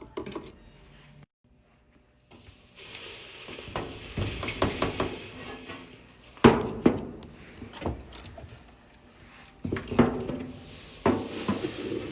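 Laundry detergent and water being poured and stirred: a steady hiss with repeated bursts of clattering knocks, the loudest about six and a half seconds in and again around ten seconds.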